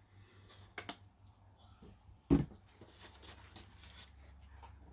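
A single sharp knock about two seconds in, like something hard being set down on a table, with a lighter click a second before it and a faint low hum underneath.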